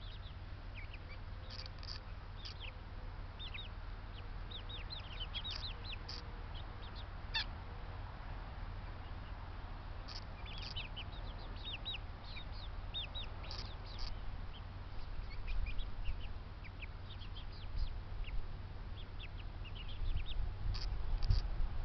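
Birds in a backyard bird yard chirping and peeping: many short, high, falling calls in quick runs. They sound over a steady low rumble that grows louder near the end.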